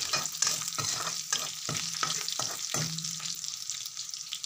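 Ginger paste, green chillies and spices sizzling in hot mustard oil in a metal kadai, with a metal spatula stirring and scraping the pan several times a second. The scraping stops about three seconds in while the sizzling goes on.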